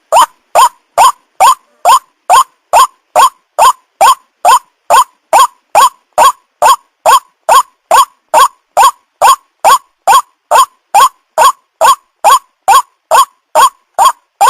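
White-breasted waterhen call repeated in a fast, even series of short notes, about two and a half a second, from a bird-lure recording.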